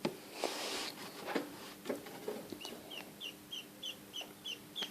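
Black East Indian duckling peeping: a regular run of short, high peeps, about three a second, through the second half, after some rustling and a few light knocks.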